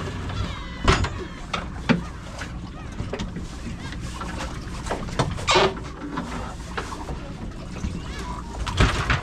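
Boat engine running steadily, with sharp knocks and thumps about one, two and five and a half seconds in, and a cluster near the end.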